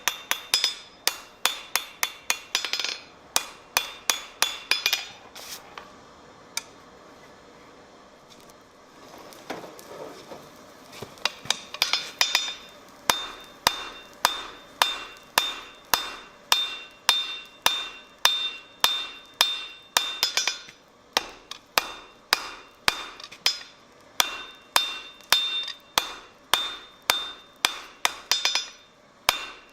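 Blacksmith's hammer striking steel on an anvil, each blow leaving a ringing note. Quick blows, about three a second, stop about five seconds in. After a pause of several seconds, steady hammering resumes at about two blows a second.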